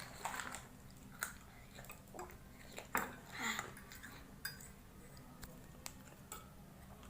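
Close-up eating of spicy instant ramen noodles: chewing with scattered sharp clicks of cutlery against the bowl, the loudest click about three seconds in.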